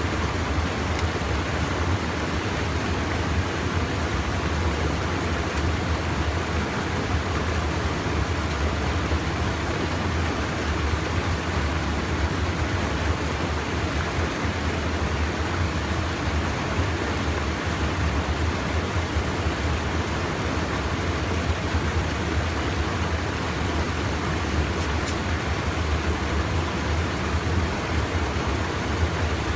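Steady rush of stream water pouring over a small check dam (weir), an even unbroken noise with a deep low rumble underneath.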